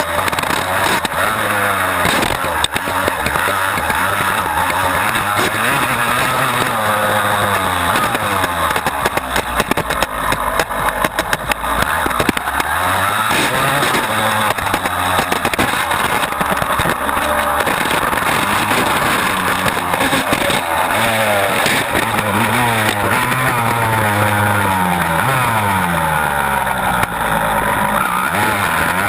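Honda CR250's two-stroke single-cylinder engine being ridden hard, its revs rising and falling over and over as the rider throttles on and off.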